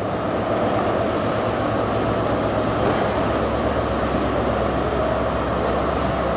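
Train running: a steady rumble with a low hum.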